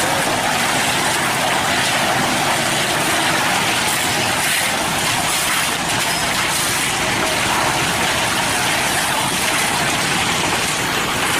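Hino cement mixer truck running, a steady rushing noise that holds level without a break.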